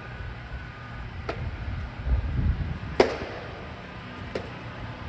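Low rumbling outdoor noise with four sharp knocks spread a second or so apart, the loudest about three seconds in.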